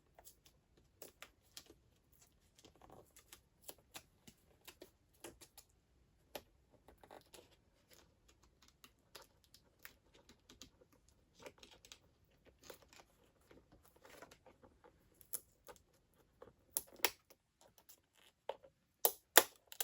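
Adhesive shielding tape with foil backing being peeled and pulled loose from an LCD panel: a string of small, irregular crackles and ticks, with a few louder ones in the last few seconds.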